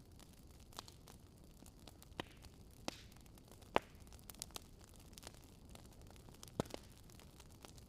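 Wood fire crackling: a quiet steady hiss of flames with scattered sharp pops and snaps, the loudest a little under four seconds in.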